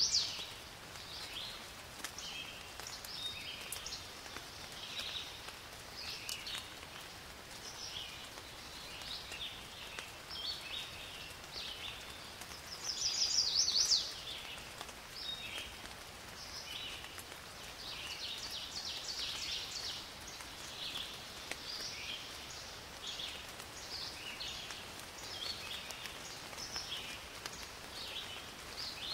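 Songbirds chirping and singing throughout, with a louder rapid trill about 13 seconds in, over a faint steady hiss.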